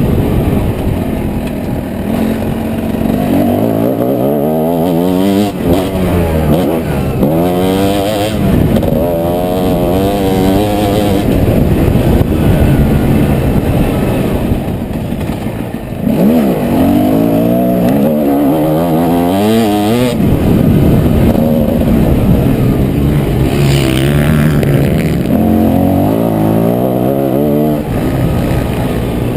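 Motocross bike engine revving hard and easing off again and again, its pitch climbing and dropping with throttle and gear changes.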